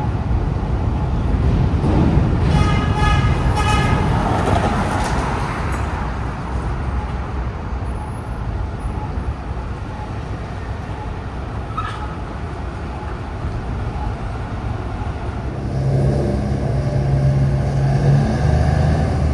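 Steady rumble of a train of R211T subway cars being towed along the tracks, with a horn blowing for about a second and a half a few seconds in and a single clank near the middle. In the last few seconds a diesel engine adds a steady low hum.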